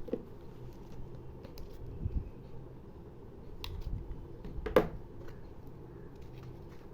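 Small clicks and knocks of craft materials being handled, with one sharper click just under five seconds in, over a steady low hum.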